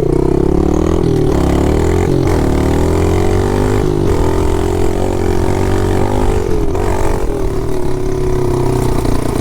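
Pit bike engine running under throttle while riding, its note rising and falling as the throttle opens and closes, with brief dips a couple of seconds in and around four and seven seconds in.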